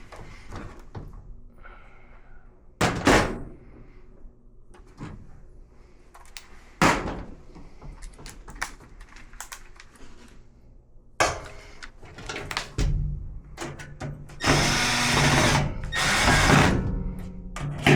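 Metal washer panels and parts knocking and clunking a few times, then a power tool, such as a drill/driver, running in bursts for the last few seconds.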